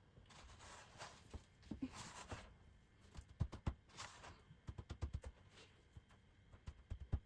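Soft handling noises while food is prepared: a brief rustle, then a run of low, soft knocks and taps.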